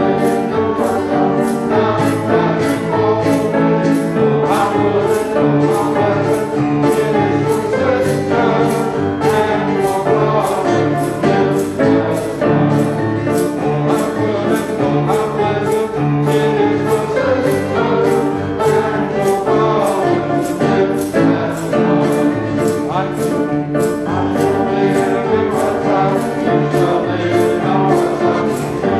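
Church choir singing with instrumental accompaniment over a steady beat.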